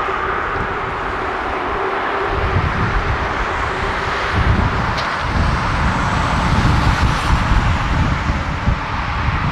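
Boeing 787-9 airliner's jet engines, a steady rushing noise with a faint steady tone in it, heard over gusts of wind buffeting the microphone.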